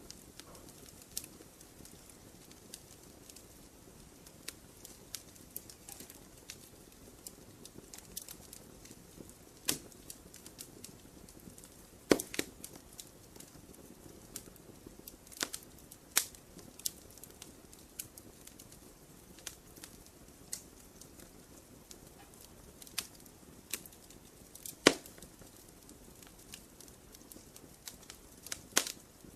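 Wood campfire crackling: irregular sharp pops and snaps over a soft, steady hiss of the flames. Two pops stand out as the loudest, about twelve seconds in and again near twenty-five seconds.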